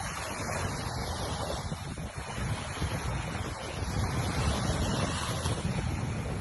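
Sea surf washing on a beach, with wind buffeting the microphone as a low rumble.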